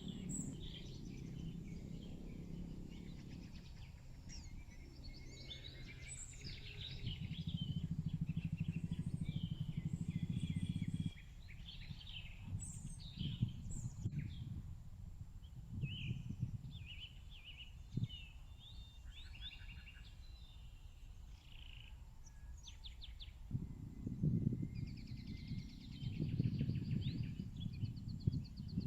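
Outdoor ambience of small birds chirping and trilling, several calls overlapping, over a low rumble that comes and goes and cuts off suddenly about eleven seconds in.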